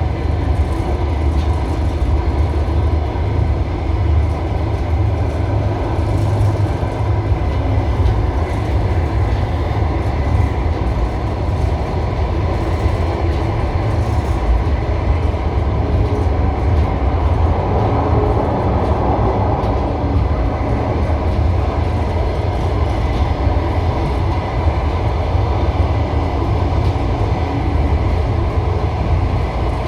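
Passenger train carriage running on the rails, heard from inside at the window: a steady low rumble of wheels on track.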